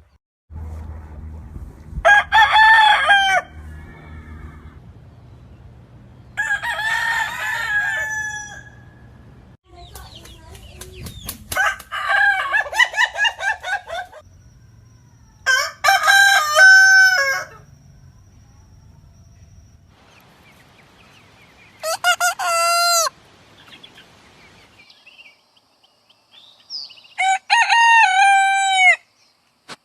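Roosters crowing: about six loud crows a few seconds apart.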